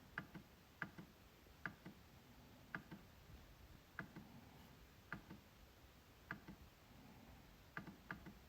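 MacBook trackpad clicked over and over, about once a second. Most clicks are a sharp press followed a moment later by a softer release click.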